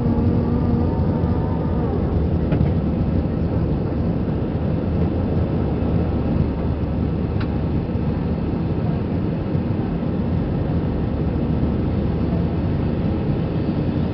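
Airbus A320's jet engines and rushing airflow heard from inside the passenger cabin during takeoff: a steady, even noise heavy in the low end, with a low hum that fades out about a second in.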